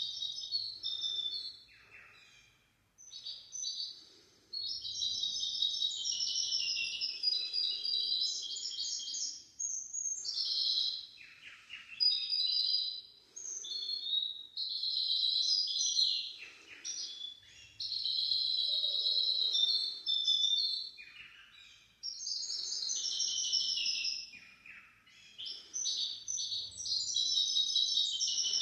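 A hybrid finch singing long, rapid trilled song phrases, high-pitched, broken by a few short pauses.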